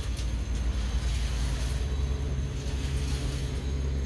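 Train running on the line, a steady low rumble with a few faint clicks about a second in.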